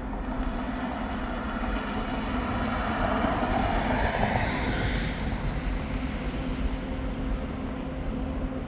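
Steady running of a vehicle, with a louder pass-by that swells to its peak about halfway through and fades away again.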